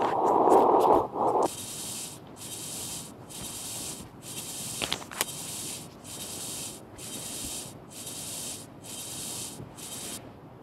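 A loud, noisy sound lasting about a second and a half, then a rapid run of about a dozen short hissing bursts, a little more than one a second, that stops shortly before the end.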